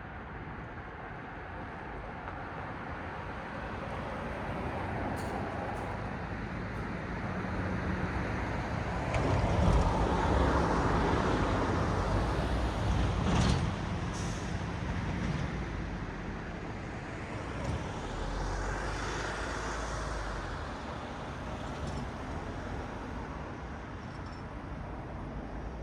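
Road traffic passing on a city street: tyre and engine noise swells as a vehicle goes by, loudest about ten to fourteen seconds in, with a low engine hum and a few brief clicks. A second vehicle passes less loudly a few seconds later.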